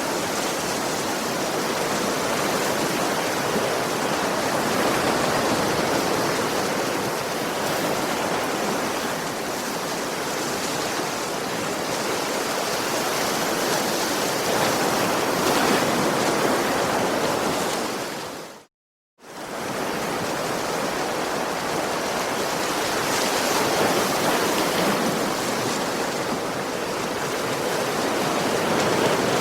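Ocean waves washing onto a beach in a steady, continuous rush of surf that swells and eases slowly. About two-thirds of the way through it drops out to silence for about half a second, then resumes.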